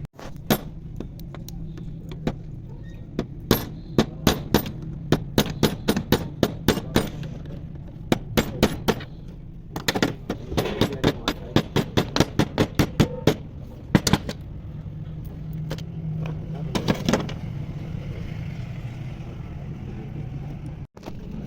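Repeated sharp metal hammer blows, several a second in bursts with short pauses between, over a steady low engine hum.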